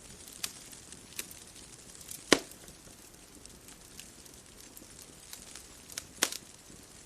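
Wood fire crackling: a few sharp pops over a soft steady hiss, the loudest pop about two and a half seconds in and a quick pair near the end.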